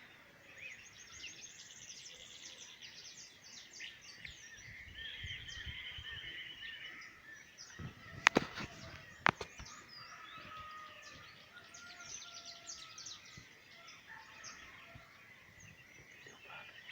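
Several birds chirping and calling, with quick trills and short repeated notes. Two sharp knocks about a second apart stand out near the middle.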